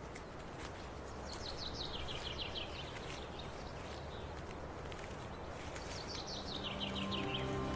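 A small bird singing twice, each song a quick run of high notes falling in pitch that lasts about a second and a half, over a steady outdoor background hiss. Soft music fades in near the end.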